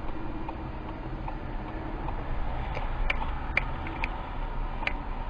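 Car driving, recorded by a dash camera: steady road and engine noise, with a few sharp ticks a little past the middle.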